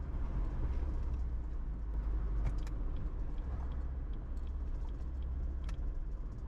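Car driving on the road heard from inside the cabin: a steady low rumble of engine and tyres, with a few faint clicks.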